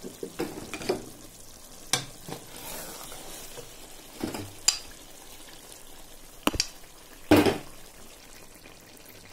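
Chicken karahi curry sizzling in a pan while it is stirred with a wooden spatula, with a few sharp knocks of the spatula against the pan, the loudest about seven seconds in.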